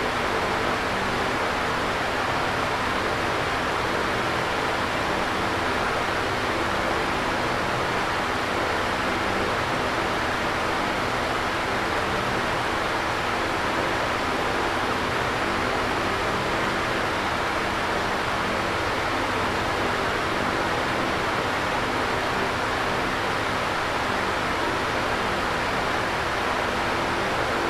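Electric fan running at a steady speed: an even whooshing of moving air, with a faint steady hum from the motor underneath.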